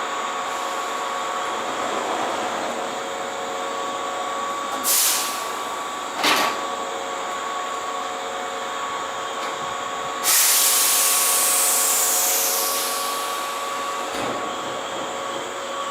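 Keihan 2200 series electric train standing at a platform, its equipment giving a steady hum of several faint tones. About five seconds in there is a short hiss and then a knock, and about ten seconds in a loud burst of compressed air hisses out suddenly and fades over about three seconds.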